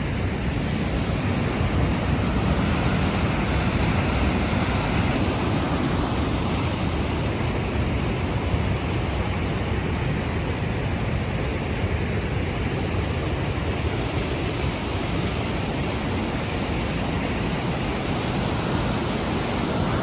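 Large waterfall in heavy flow, swollen by rain: a loud, steady rush of falling water with no break.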